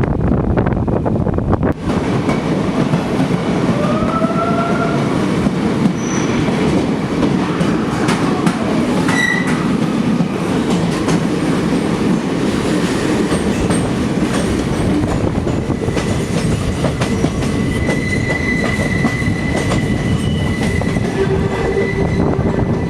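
Passenger train running, heard from on board: a steady rumble and clatter of wheels over the rails, with wheel squeal — a short gliding squeal about four seconds in and a long thin squeal near the end.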